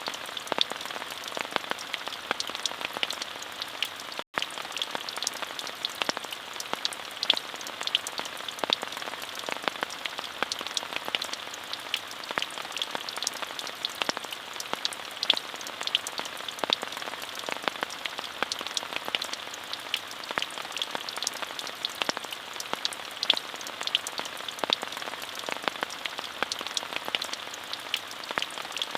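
Steady rainfall: a continuous hiss dotted with many sharp, close drop taps, with a split-second gap about four seconds in.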